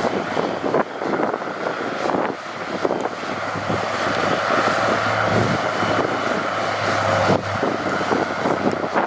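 Heavy construction machinery, a bulldozer or dump truck, with its diesel engine running steadily under a low hum.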